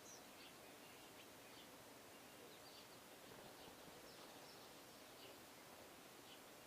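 Faint, scattered short bird chirps, a few a second at most, over a steady low hiss of outdoor background noise.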